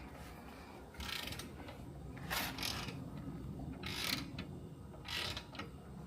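Hand socket ratchet clicking in four short runs of strokes, turning a bolt on a motorcycle.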